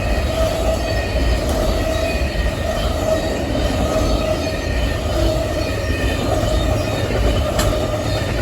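Amtrak Auto Train's passenger and auto-carrier cars rolling past at speed: a loud, steady rumble of wheels on rail with a high steady tone running over it.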